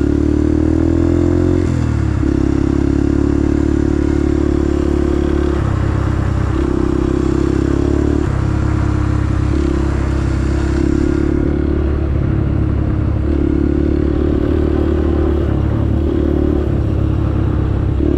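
Vehicle engine running, with a ticking noise that the owner cannot identify.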